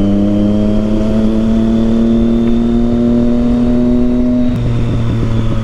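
Triumph Street Triple 675's three-cylinder engine through a Yoshimura exhaust, pulling under acceleration with its note rising slowly and steadily. Near the end the main note drops lower.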